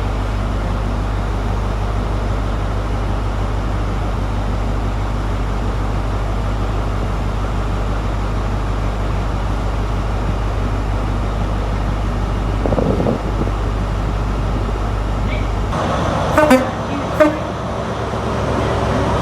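A train at a station platform rumbling steadily and low. Near the end the rumble drops away and two short toots sound, about half a second apart.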